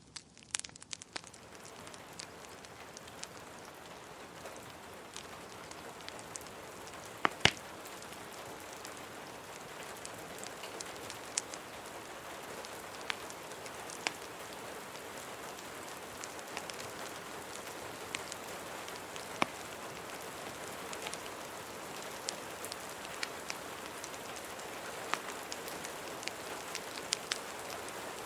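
Steady rain, swelling in over the first couple of seconds, with scattered sharp pops and crackles of a wood fire; the loudest is a quick double pop about seven seconds in.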